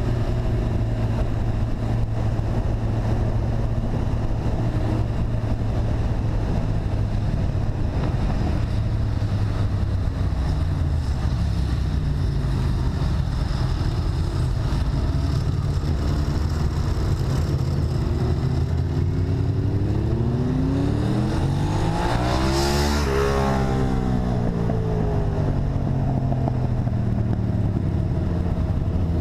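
Motorcycle engine running steadily on the move. About 23 seconds in, another engine swells and fades close by, its pitch rising then falling as it passes.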